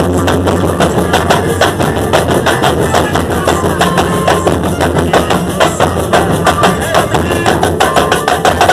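A bloco's live percussion ensemble playing drums and other percussion in a fast, steady beat, with a few held tones over it.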